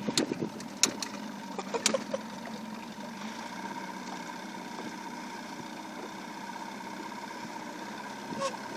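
Boat's motor running steadily, a low even hum, with a few sharp knocks in the first two seconds.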